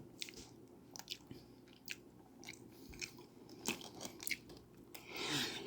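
A person chewing a mouthful of food close to the microphone, with scattered wet mouth clicks and smacks at irregular intervals. A louder rush of breath comes near the end.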